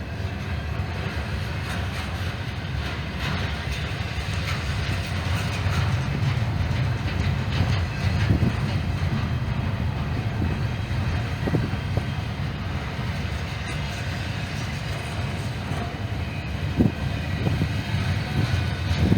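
Norfolk Southern freight train rolling by: a steady low rumble of the cars on the rails, with a few sharp clicks from the wheels.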